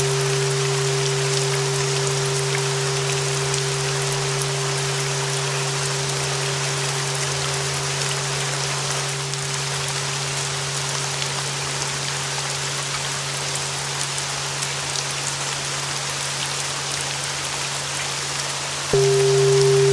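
Steady rain noise with a sustained 396 Hz flat-bell tone and a low hum slowly fading under it; just before the end the bell tone sounds again, suddenly louder, with a higher overtone.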